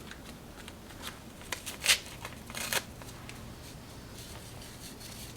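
A Sazon seasoning packet being opened and emptied over chicken in a pot: a few short, sharp crinkles and rustles of the packet, the loudest about two seconds in.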